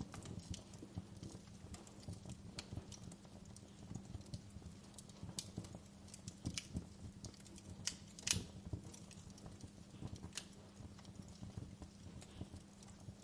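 Wood fire in a fireplace crackling, with irregular sharp pops and snaps over a low steady rumble of the flames; the loudest pop comes a little past halfway.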